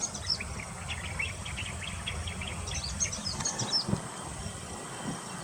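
Birds chirping in short, rapid notes, with a few higher gliding whistles in the middle, over a steady low outdoor rumble.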